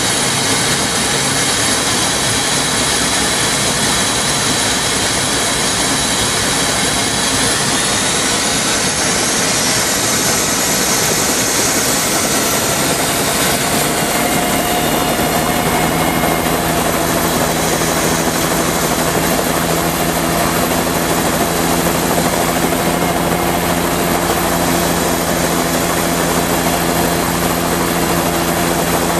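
Helicopter engines and rotor running loud and steady for a take-off. About halfway through, a low steady hum joins in and holds.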